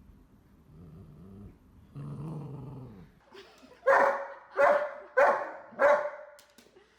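A dog growls low twice, then barks four times in quick succession, about two barks a second.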